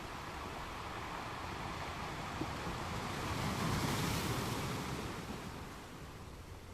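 Ocean surf: a wave builds, breaks and washes up the beach, swelling to its loudest about four seconds in and then falling away.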